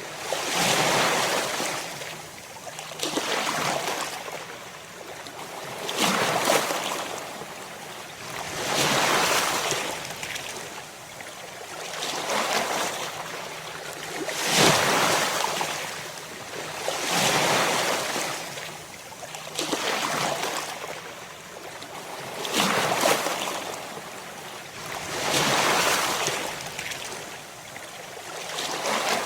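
Ocean waves breaking on a shore, one after another, each surge of surf rising to a wash and falling back about every three seconds.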